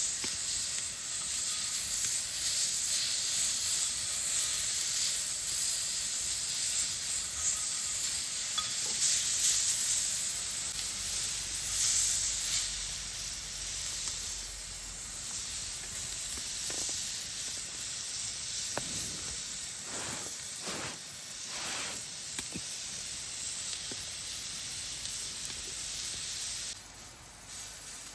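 Meat sizzling over a wood campfire, with a few sharp crackling pops about two-thirds of the way in. The sizzle drops away near the end.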